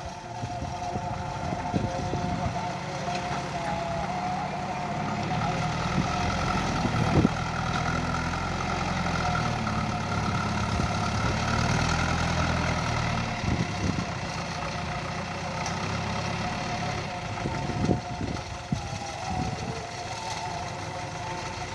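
JCB 3DX backhoe loader's Kirloskar diesel engine running steadily. It gets louder for several seconds in the middle, with a whine over it, and there are a few short knocks.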